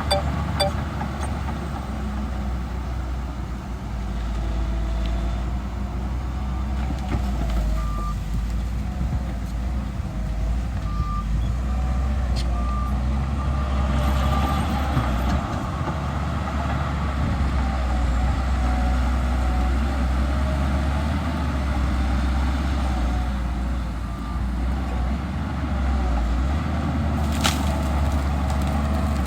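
Heavy diesel earthmoving machinery running under load with a steady low rumble, while a reversing alarm beeps in short bursts at several points. A single sharp click sounds near the end.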